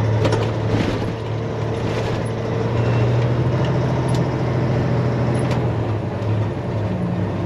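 Peterbilt 379 semi truck's diesel engine running steadily, heard from inside the cab as a constant low drone, with a few light clicks and rattles.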